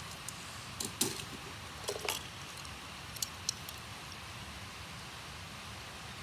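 Small diecast toy cars being handled: a few sharp clicks and taps in the first four seconds, over a steady background hiss.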